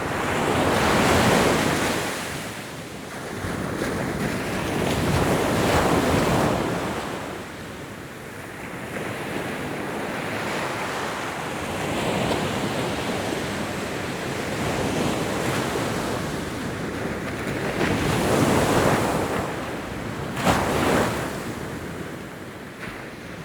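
Ocean waves breaking and washing on a shore: a rushing surf that swells and ebbs every four to six seconds, with one short sharp splash about twenty seconds in, and fading away near the end.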